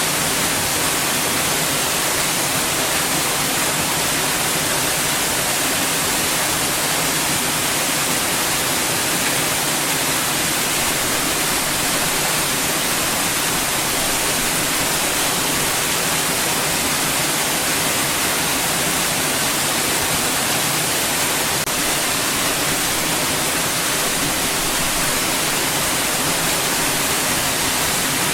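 Steady white noise: an even, unchanging hiss that is strongest in the high range.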